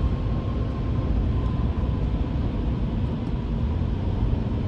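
Steady low rumble of a car's road and engine noise heard from inside the cabin while driving, with a faint steady high tone running through it.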